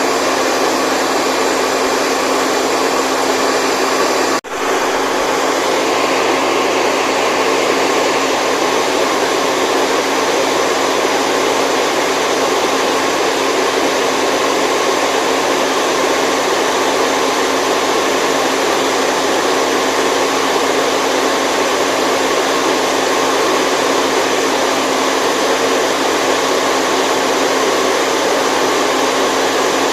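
Steady, loud white noise with a faint hum of steady tones running through it, like a running motor-and-fan appliance. It cuts out for an instant about four seconds in and then resumes unchanged.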